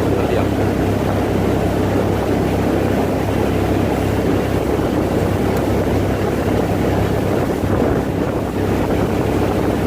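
A motorboat's engine runs steadily underway, a constant low hum mixed with wind buffeting the microphone.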